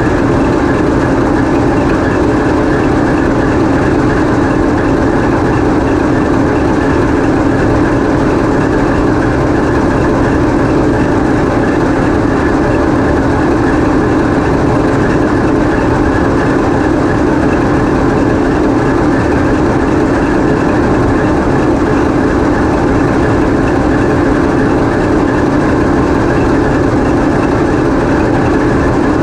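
TEP70 passenger locomotive's 16-cylinder 2A-5D49 diesel engine running at a steady speed, heard inside the engine room: a loud, even drone that does not change.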